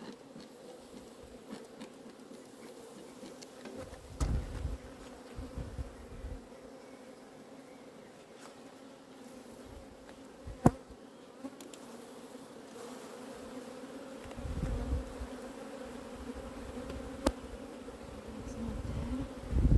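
Honeybees buzzing steadily around an open hive, a continuous hum. Low rumbling comes and goes, and there are two sharp clicks, the louder one about halfway through.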